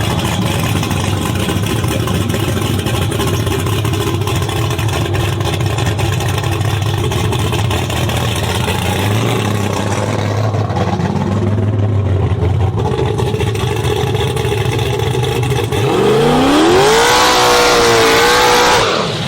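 Car engines running steadily with a low rumble. About 16 seconds in, one engine revs up, rising sharply in pitch, holds at high revs for a couple of seconds, then drops away suddenly.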